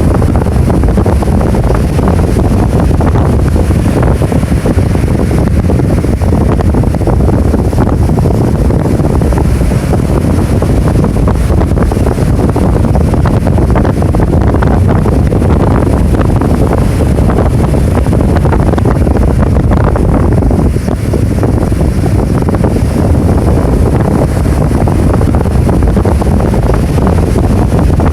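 Heavy typhoon surf with strong wind buffeting the microphone: a loud, dense, steady rumble of waves and wind.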